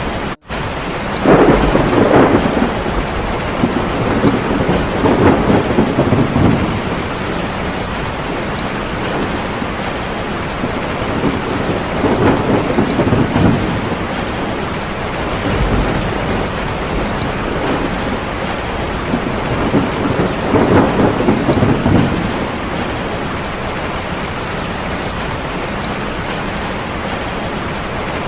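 Steady heavy rain with four rolls of thunder spread through it. There is a brief break in the sound just after the start.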